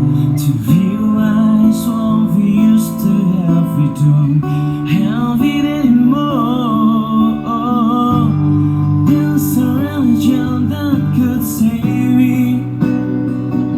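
Acoustic guitar strummed with a voice singing a melody over it.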